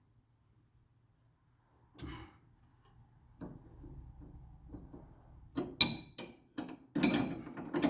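Hand tools on a steering tie rod ball joint: a knock, handling sounds, then a sharp metal clink a little before six seconds in, followed by a run of quick metallic clicks and clatter near the end as a ball joint separator is fitted and worked.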